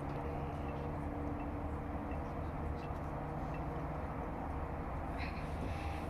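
Steady low rumble of outdoor stadium ambience, with a few faint held tones and scattered light clicks.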